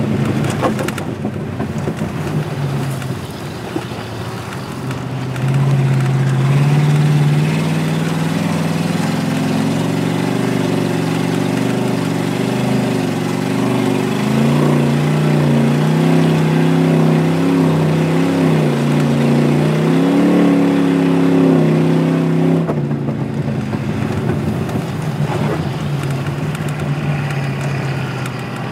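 Car engine heard from inside the cabin, revving up and easing off while racing on ice: its pitch climbs about five seconds in, rises and falls repeatedly, and drops back to a lower steady note near the end.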